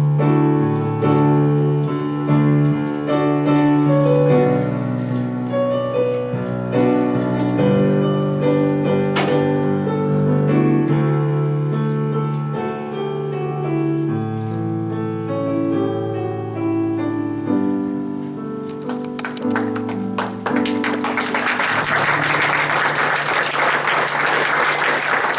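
Piano music with held bass notes under a moving melody, which ends about 20 seconds in. An audience then breaks into applause that runs on to the end.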